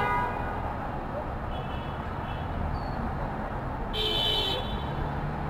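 City street traffic with a steady low rumble; a faint horn beep sounds about two seconds in, and a short car horn toot about four seconds in.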